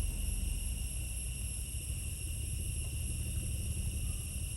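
Steady high-pitched drone of insects, likely crickets or cicadas, over a constant low rumble.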